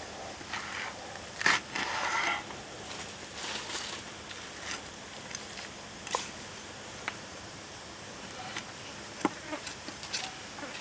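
Scattered light clicks and taps with a few short scraping bursts, the longest about a second and a half in: food and utensils being handled during preparation.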